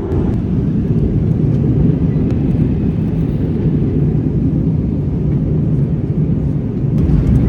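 Steady low rumble inside the cabin of an Airbus A321neo in flight: airflow and engine noise.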